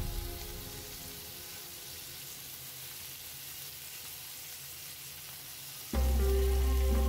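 Chicken shashlik skewers sizzling steadily as they fry in about three tablespoons of oil in a grill pan. About six seconds in, background music comes in with a heavy low bass note, louder than the frying.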